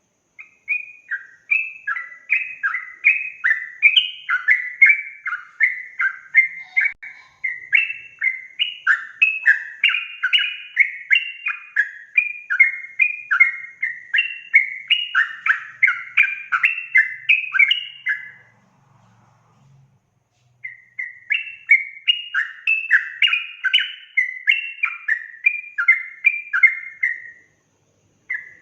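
Yellow-vented bulbul (trucukan) singing a fast, unbroken run of short chattering notes, a couple or more a second. It breaks off for about two seconds, resumes, and pauses once more near the end.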